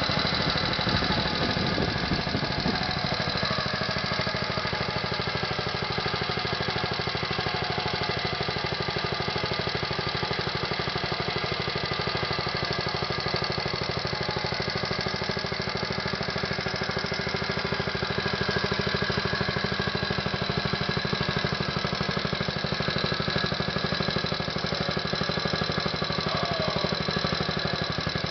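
An engine running steadily at an even speed, its firing pulses rapid and regular.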